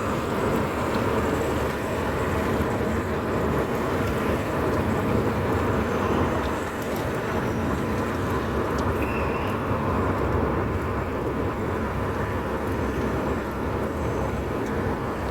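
Steady road noise and engine hum of a moving car.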